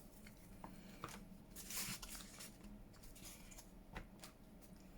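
Faint rustling of paper being handled, with a few light ticks and a brief swish just under two seconds in.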